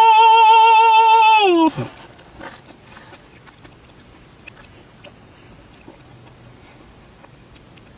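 A loud, high-pitched wailing cry held with a wavering pitch for nearly two seconds, dropping in pitch as it cuts off. After it, only faint background noise with a few small clicks.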